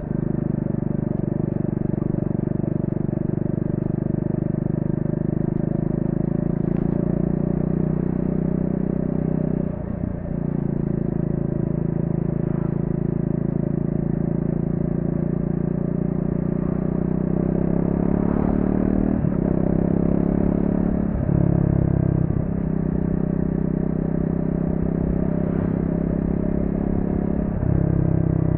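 Triumph Speed 400's single-cylinder engine running through a stock exhaust while being ridden. Its note stays steady for long stretches, climbs for a while past the middle, and breaks off briefly several times before picking up at a new pitch, as the gears are changed.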